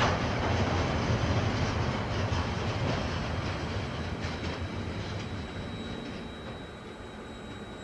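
KiwiRail train rolling past, its wheels clacking over the rail joints, the rumble fading away over the last few seconds. A faint, thin high whine comes in during the second half.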